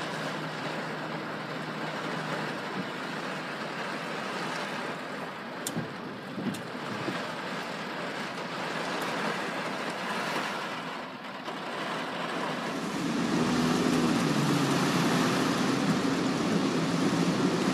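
Steady road and wind noise inside a car driving in typhoon winds, with a few sharp ticks around six seconds in. About thirteen seconds in it grows louder, with a deeper rumble.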